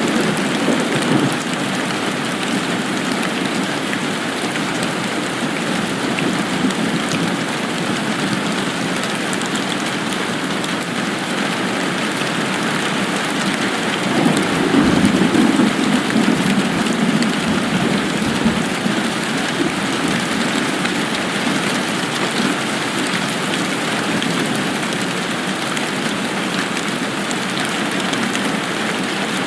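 Steady rain falling, with a low rumble swelling for a few seconds about halfway through.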